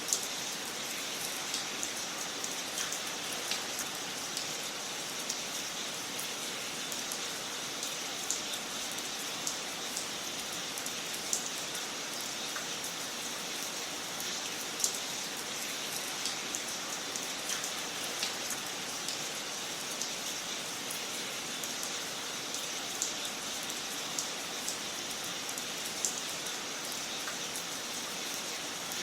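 Wood fire crackling in a fireplace: a steady hiss with scattered sharp pops, one every second or two.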